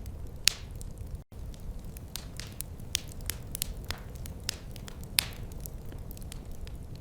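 Wood fire in a fireplace crackling, with irregular sharp snaps and pops over a low steady rumble. The sound cuts out for an instant just after a second in.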